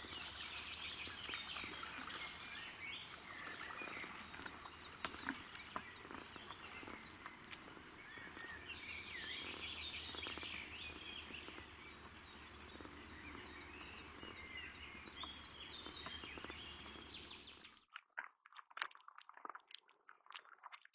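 Birds singing and chirping, many short calls over a steady low hum; it stops suddenly near the end, after which there are a few faint clicks.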